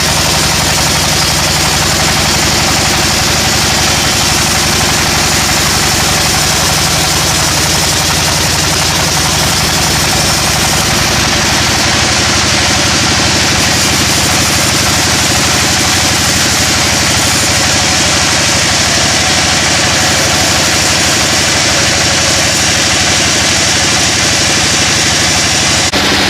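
Sawmill machinery running steadily: a continuous engine hum under a broad, even hiss, changing abruptly just before the end.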